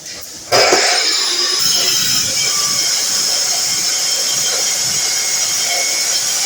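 DeWalt miter saw starting up about half a second in and cutting metal, a loud, steady, high-pitched screech of blade on metal that throws hot shavings.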